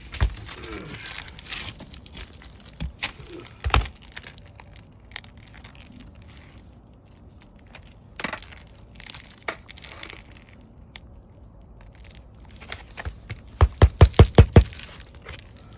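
Roofing nails being hammered into a 3-tab asphalt shingle: scattered knocks and the crinkle of the shingle being handled, then a quick run of about seven hammer strikes near the end driving a nail home.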